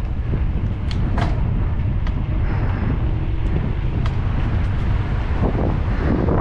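Wind buffeting the microphone of a camera riding on a moving bicycle: a steady low rumble, broken by scattered sharp clicks.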